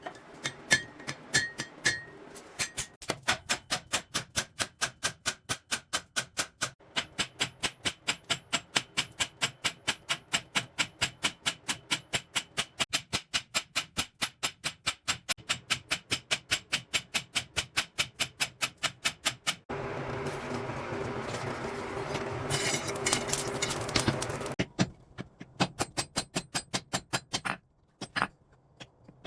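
Rapid, evenly spaced hammer blows on steel, about three to four a second, with a steadier noisy stretch about two-thirds of the way through and short pauses near the end.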